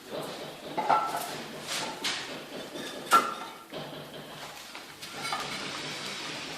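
Glazed ceramic stove tiles knocking and clinking against each other as they are handled and set in place, several sharp knocks with the loudest about three seconds in.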